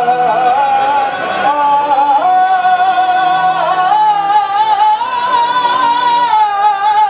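Music with a voice singing long, wavering held notes, the melody gliding down near the end.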